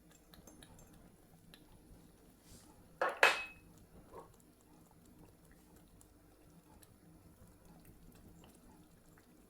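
A kitchen utensil clinking against a cooking pot, two quick knocks about three seconds in with a brief ring, then a softer knock a second later; otherwise only a faint steady background hum.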